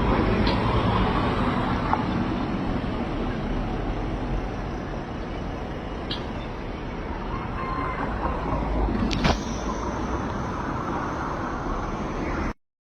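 Steady road traffic noise from passing vehicles, with a few faint clicks and one sharp knock about nine seconds in. The sound cuts off abruptly near the end.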